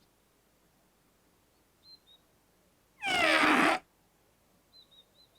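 Makka Pakka's trumpet giving a strange blast, just under a second long, with pitches sliding downward. A stone lodged inside the trumpet is what makes it sound wrong. Faint, short, high chirps come before and after it.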